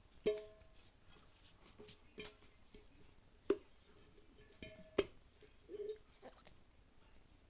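A child hitting a metal saucepan, with irregular strikes spaced a second or so apart, each ringing briefly with a few clear pitches.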